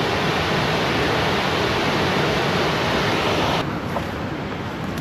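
Rushing water of a river running high with spring melt, pouring over a falls: a loud, steady rush whose upper hiss drops off abruptly about three and a half seconds in.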